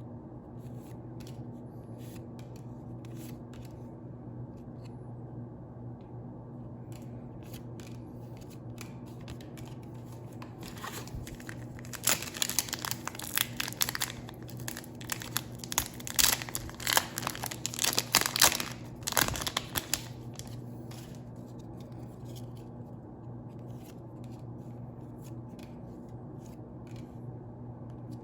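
Pokémon booster pack's foil wrapper being crinkled and torn open, a loud dense crackling for several seconds in the middle, with lighter handling rustles and clicks before and after over a steady low hum.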